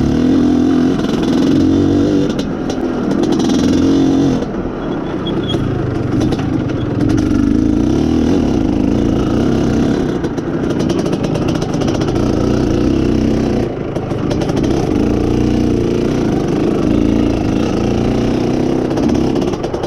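Izh Planeta Sport's single-cylinder two-stroke motorcycle engine running under way, its note rising and falling with the throttle. It eases off briefly about four seconds in and again near fourteen seconds.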